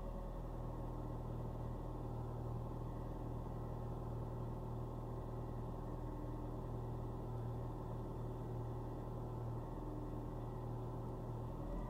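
Ford Fiesta engine idling steadily after a cold start, its even hum holding one pitch.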